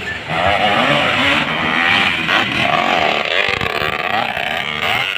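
Motocross bike engines revving hard, several at once, their pitch rising and falling as the riders work the throttle.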